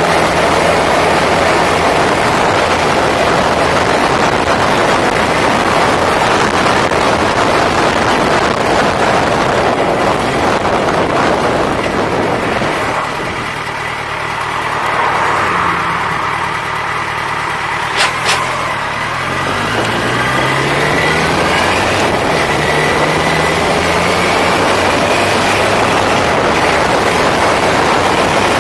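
Motorcycle riding, heavy wind rush on the microphone over the engine. Around the middle it eases off and quietens. Then it pulls away again, engine pitch rising in steps through the gears, with a sharp click just before.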